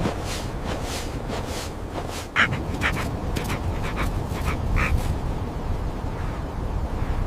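Even, rhythmic crunching, about three steps a second, over a low wind rumble. About two and a half seconds in the steps stop and a series of short, harsh animal calls comes, about seven in two and a half seconds.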